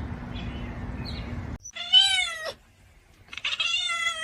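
A domestic cat meowing twice: two short, slightly arching meows about a second and a half apart. A stretch of steady background noise comes before them and cuts off just before the first meow.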